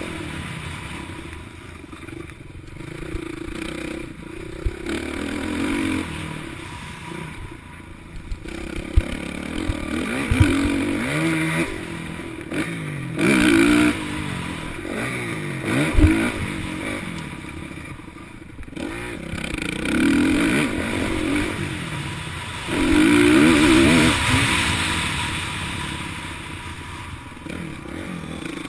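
Motocross bikes running on the track, engines revving and passing, their pitch repeatedly rising and falling through the gears. The sound swells loudest a little before the middle and again near the end, with a few sharp knocks along the way.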